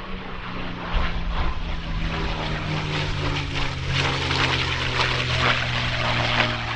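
Rolls-Royce Merlin V12 piston engine of a propeller warbird flying past, its note falling in pitch as the aircraft goes by, with a rough crackle over the engine tone.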